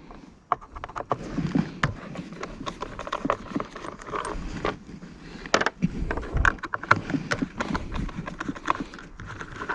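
Irregular clicks and taps of small metal screws and a screwdriver being handled against the blower's plastic housing during disassembly.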